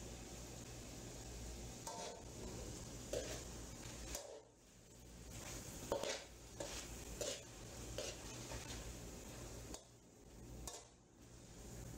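Metal slotted spatula scraping and stirring chicken pieces around a karahi, with strokes at irregular intervals over a steady low sizzle as the chicken's moisture cooks off and the oil starts to surface.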